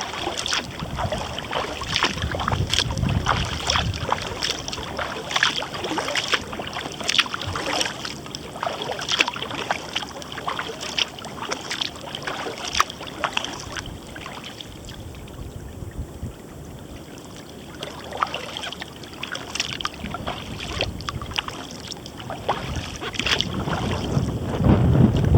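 Kayak paddle strokes: water splashing and dripping off the paddle blades in quick irregular ticks and splashes, over a low wind rumble on the microphone. The splashing thins out for a few seconds past the middle, and the wind rumble grows louder near the end.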